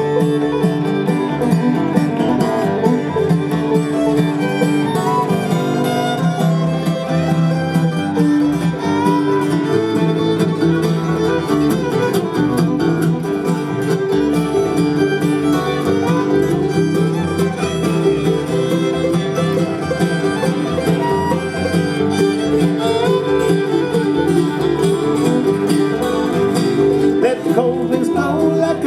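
Live bluegrass band playing an instrumental break, with the fiddle leading over guitar and banjo.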